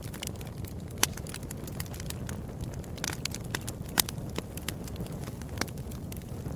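Fireplace fire crackling, with irregular sharp pops and snaps over a steady low rumble of the flames. The loudest pops come about a second in and about four seconds in.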